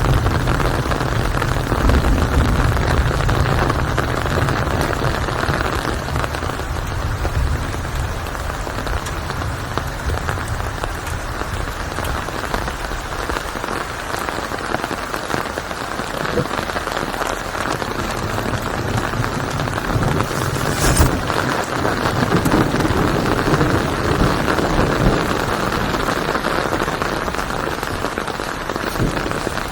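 Steady rain falling, an even hiss. A low rumble sits under it for the first several seconds and then fades.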